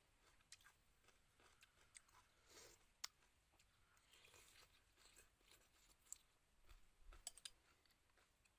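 Faint chewing and mouth sounds of a person eating soft pieces of fish from a spoon, with a few sharp little clicks, one about three seconds in and a quick cluster near the end.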